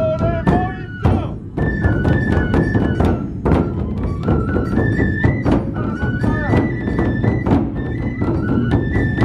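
Matsue drum-procession (dō gyōretsu) festival music: large dō drums beaten in a steady, rapid rhythm under a high bamboo flute melody, with metallic strikes among the drumbeats.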